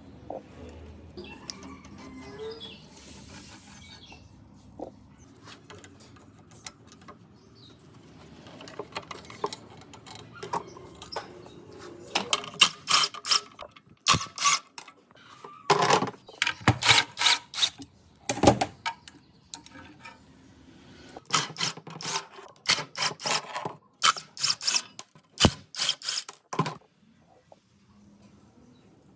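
Hand tools working on metal parts: a quiet first half, then dense runs of clicking, ratcheting and sharp knocks from about halfway through.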